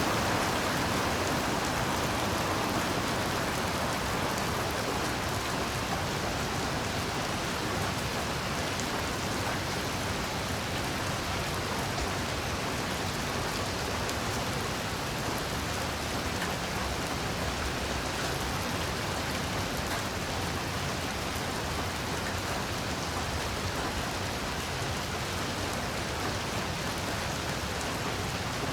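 Heavy rain falling steadily, an even hiss, a little louder in the first couple of seconds.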